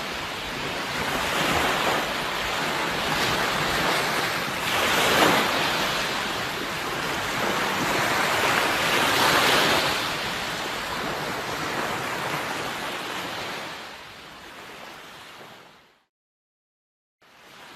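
Sea waves washing onto a shore, with louder surges about five and nine seconds in. The sound fades, cuts out to total silence for about a second near the end, then comes back quieter.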